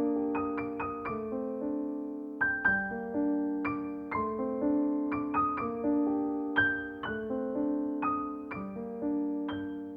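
Background music: a gentle piano piece, single melody notes struck over sustained lower chords.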